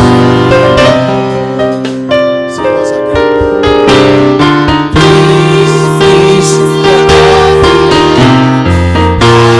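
Electric keyboard playing sustained gospel worship chords.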